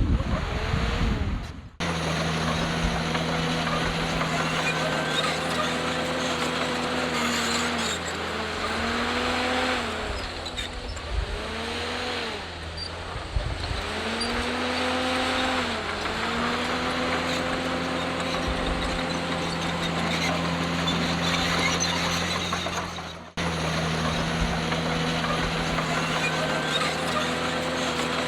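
Crawler bulldozer's diesel engine working under load, its pitch sagging and recovering again and again as the blade pushes stone. The sound cuts out abruptly twice, near the start and about four-fifths of the way through.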